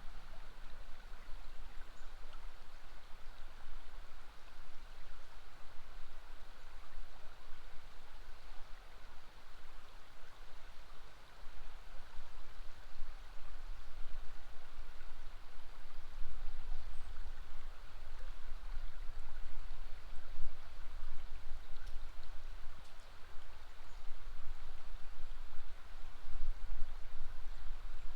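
River water flowing in a steady rush, with a low rumble underneath that swells and fades.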